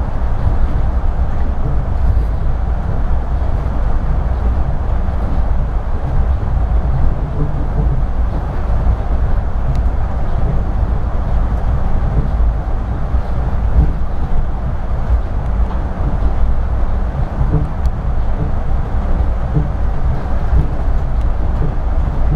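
Yurikamome rubber-tyred automated guideway train running along its elevated guideway, heard from inside the car: a steady low rumble that does not let up.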